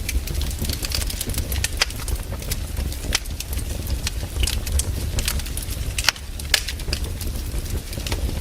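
Wood fire crackling, with irregular sharp snaps and pops of burning logs over a steady low rumble.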